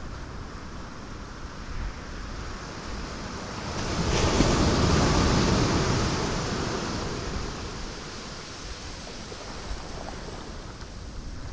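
Ocean waves washing against rocks, with a steady surf hiss. One large wave breaks about four seconds in and swells to the loudest point, then drains away over the next few seconds.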